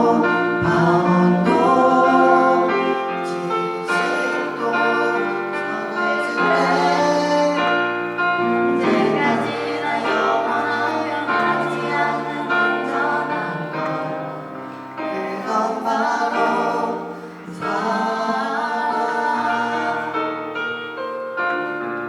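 A group of voices singing a Korean praise song together, with instrumental accompaniment underneath.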